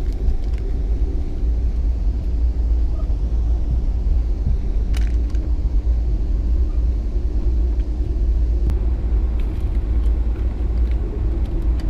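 Passenger train running, heard from inside the car: a steady low rumble with a few faint clicks.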